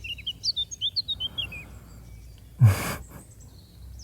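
Small songbirds chirping in a quick run of short high notes for the first second and a half. About two and a half seconds in, a loud breathy sigh from a man's voice close to the microphone.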